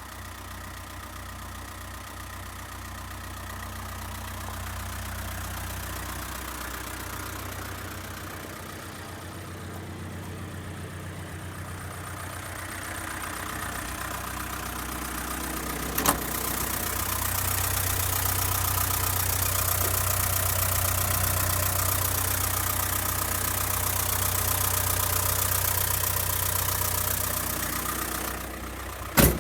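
Toyota Dyna truck's engine idling steadily, growing louder from about halfway and dropping back shortly before the end. A sharp knock sounds about halfway through and another just before the end.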